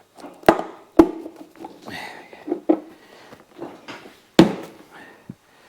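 Sharp knocks and clunks of hand work on a motorcycle in a garage: three loud knocks, about half a second, one second and four and a half seconds in, with lighter taps and rattles between.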